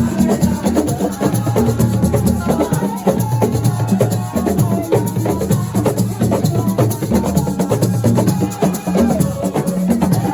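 Live band music: dense hand percussion and shakers over a steady bass line, playing in a fast even rhythm.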